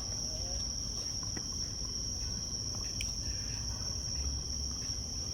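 Steady high-pitched chorus of insects singing without a break, with a couple of faint knocks.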